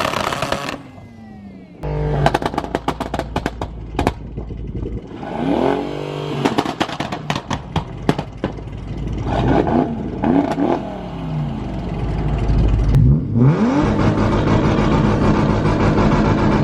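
Car engines revving in short bursts, rising and falling in pitch, against two-step launch limiters, with rapid runs of exhaust pops and crackles. About thirteen seconds in this gives way to a steadier engine drone.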